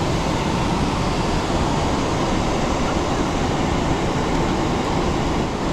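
Steady cabin noise inside a Boeing 777-300ER airliner: an even, unbroken rumble and rush, heaviest in the low end.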